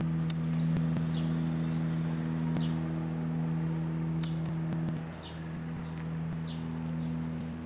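Small birds chirping: short, high, falling calls about once a second, over a steady low hum that weakens about five seconds in.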